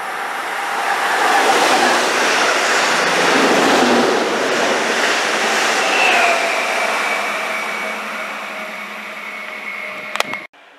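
Electric multiple unit, a MÁV Stadler FLIRT, running through the station at speed: a rushing of wheels and air builds, peaks as the train passes, then fades away. Its motor whine drops in pitch as it goes by, about six seconds in. The sound cuts off abruptly near the end after a couple of sharp clicks.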